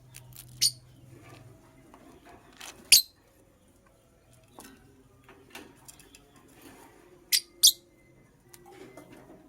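Lovebird giving short, sharp, high-pitched chirps: one about half a second in, another near three seconds, and a quick pair near the end.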